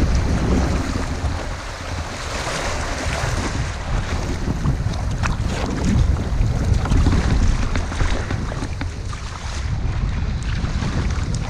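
Wind buffeting the microphone, a heavy uneven rumble, over water lapping and splashing around a drifting kayak, with a few light knocks.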